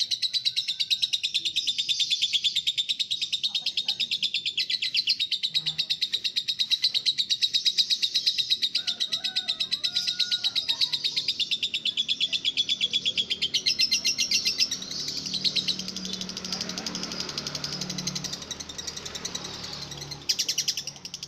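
Lovebird singing a long, very fast, high-pitched chattering trill, unbroken for about fourteen seconds, then breaking into looser chatter with a low hum underneath.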